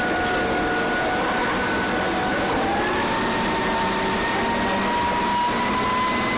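Steady machine running noise with faint whining tones that slowly drift in pitch.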